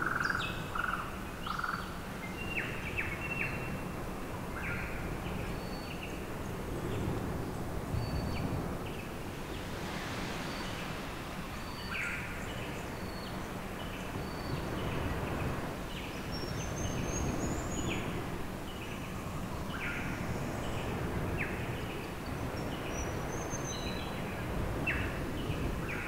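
Wild birds calling: scattered short chirps and calls, some rising briefly in pitch, over a steady low background rumble of outdoor noise.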